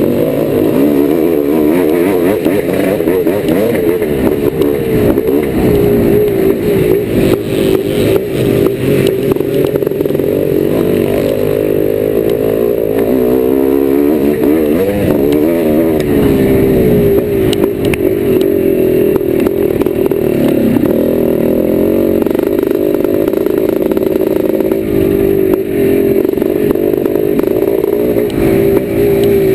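Single-cylinder two-stroke engine of a 1990 Yamaha YZ490 motocross bike being ridden hard, heard from on the bike: revs rise and fall continuously with throttle and gear changes.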